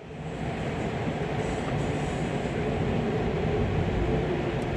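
Amtrak Auto Train rolling along at speed, heard from inside a passenger car: a steady rumble of wheels on rails that comes in suddenly at the start.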